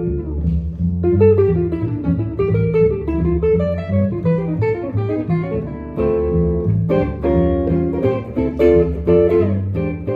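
Jazz guitar and bass playing an instrumental passage: the bass plays steady low notes while the guitar runs quick single-note lines, then switches to full strummed chords about six seconds in.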